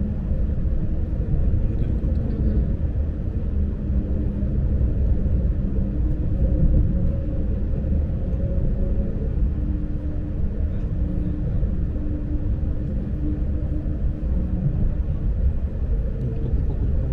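Inside a Lastochka electric train in motion: a steady low rumble from the running train, with faint humming tones that shift slightly in pitch.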